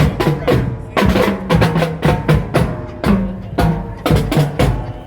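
Marching band drumline playing a cadence: a quick, steady run of snare and rim clicks with low, pitched bass-drum notes.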